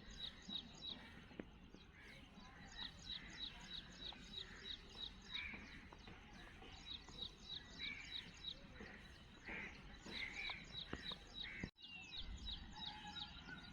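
Small birds chirping in quick runs of short high notes, about four a second, over a faint low background rumble. There is a brief dropout near the end.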